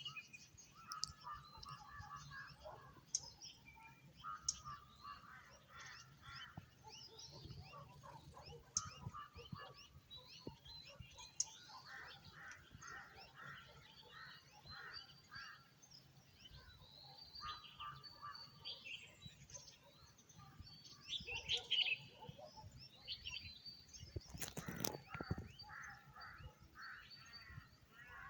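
Dawn chorus of many birds chirping and trilling together, with crows cawing in repeated series. One louder call comes about three-quarters of the way through, then a short bump-like noise.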